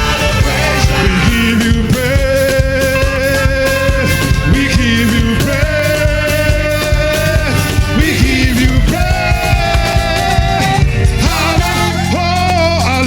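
Live gospel praise music: a band playing with a beat while a singer holds long notes that step from one pitch to the next.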